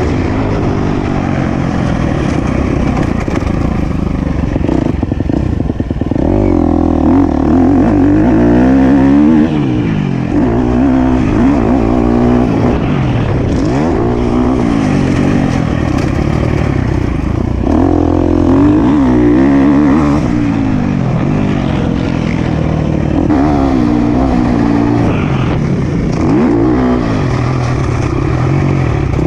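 Motocross bike engine being ridden hard, its pitch climbing and dropping over and over as the throttle is opened and closed and the gears change.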